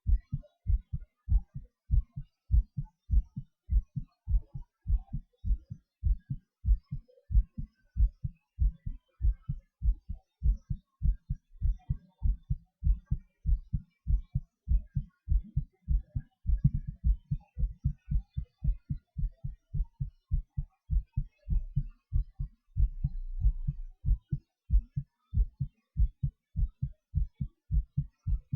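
A person's heartbeat picked up at the chest, a steady run of low lub-dub thuds. About two-thirds of the way through, a low rumble sits under the beats for a second or two.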